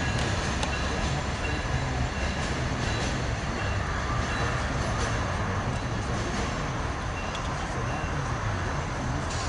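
A train running past on the rails: a steady rumble with scattered clicks from the wheels on the track.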